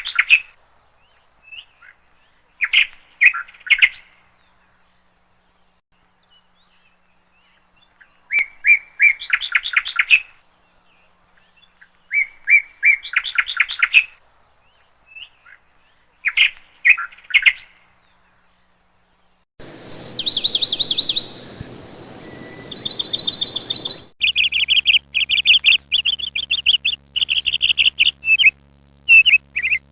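Small birds chirping in short bursts of rapid notes every few seconds, with quiet gaps between. Near two-thirds of the way through the calls change suddenly to higher trills over a faint hiss, then to a near-continuous run of quick repeated chirps.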